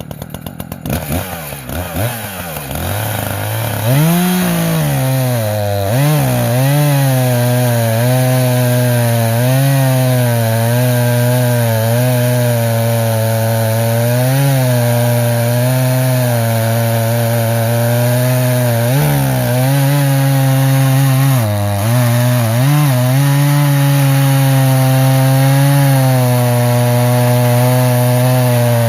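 Echo CS-590 two-stroke chainsaw with a freshly sharpened 20-inch chain. It is blipped a few times, then about four seconds in it runs at a steady full throttle cutting through a log, its pitch dipping briefly now and then as it loads up in the wood.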